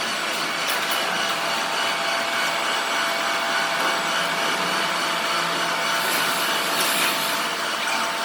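A machine running steadily: an even whir with a hiss and several steady tones, unchanging throughout.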